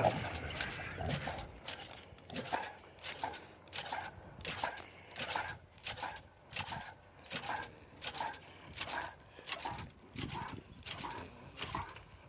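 Crunchy footsteps on frozen ground at an even walking pace of nearly two steps a second.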